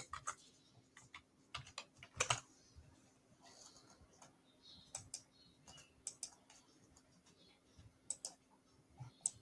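Faint, scattered key clicks, mostly in pairs a fraction of a second apart, heard over a telephone line with a low steady hum beneath.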